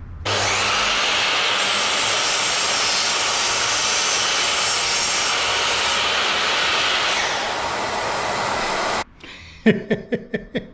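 Makita sliding mitre saw and Makita dust extractor running together, the blade cutting through a piece of wood for a few seconds, harsher while it bites. Both cut off suddenly about nine seconds in, followed by a few short knocks.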